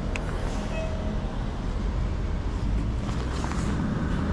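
Steady city street background in the rain: a low traffic rumble under an even hiss from the wet street.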